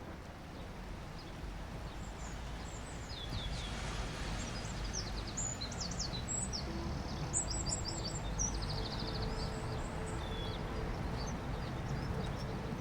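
Steady wash of ocean waves, with small birds chirping in quick trills from about three seconds in.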